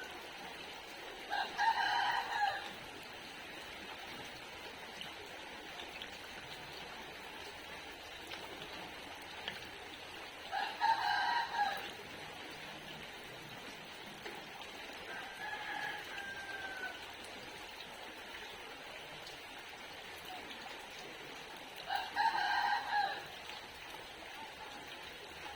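Rooster crowing three times, each crow lasting about a second and a half and spaced about ten seconds apart, with fainter calls in between. A steady hiss of rain runs underneath.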